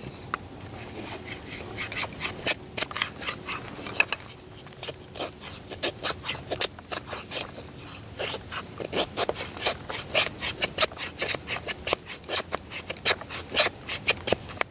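Knife blade shaving wood in quick repeated scraping strokes, carving feather sticks for lighting a fire. The strokes are sparse at first and come about three or four a second from about four seconds in.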